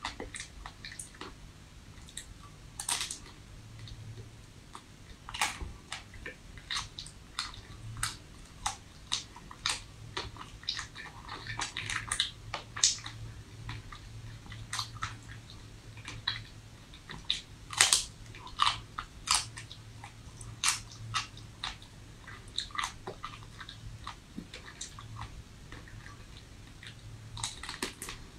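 Close-miked biting and chewing of a hard-frozen ice cream bar: sharp, irregular crunches and cracks as frozen pieces break between the teeth, about one or two a second, with quieter mouth sounds between.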